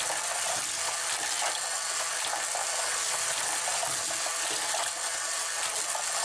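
Hot Wheels Power Tower wall track running: a steady whirring hiss with light scattered clicks as die-cast cars roll around the plastic track.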